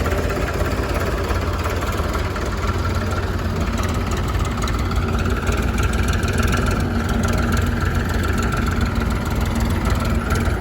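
Diesel engines of a tractor and a backhoe loader running steadily at idle-to-low revs during loading, with a faint whine that swells a little in the middle.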